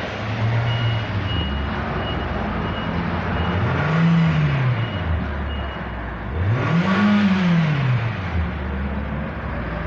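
Nissan MRA8 1.8-litre four-cylinder engine idling steadily and being blipped three times, each rev rising higher than the last and dropping back to idle, as it is run for a check.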